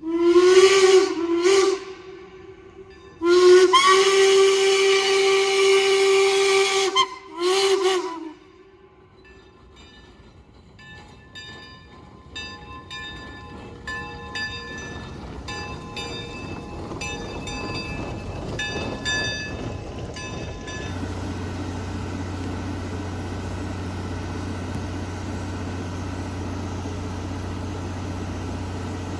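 Steam locomotive whistle sounding four blasts, short, short, long, short, each sliding up in pitch as it opens. Then a run of regular knocks that gets steadily quicker, and from about two-thirds of the way in a steady low running drone.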